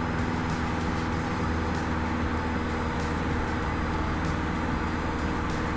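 Cessna 152's four-cylinder Lycoming piston engine and propeller droning steadily in flight, heard inside the cockpit.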